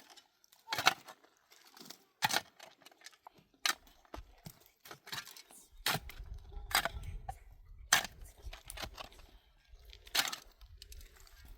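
Sharp cracks and knocks at irregular intervals, about six of them, typical of wood being struck or snapped while being worked by hand; a low rumble joins about halfway.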